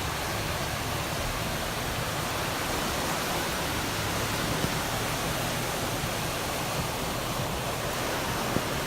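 Heavy rain falling on a moving car, with the hiss of tyres on a flooded road, heard from inside as a steady, even rush.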